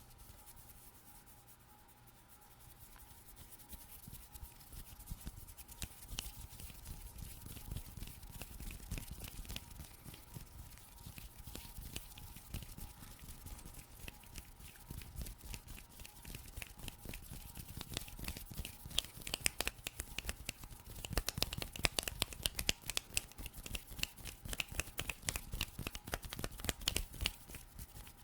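Fast hand sounds made close to a microphone: a dense run of quick scratches, rubs and taps of skin and fingers, growing louder and busier about two-thirds of the way through.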